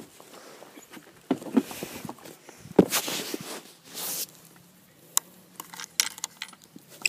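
Irregular knocks, clicks and rustles of someone handling and climbing onto a Polaris quad bike before it is started.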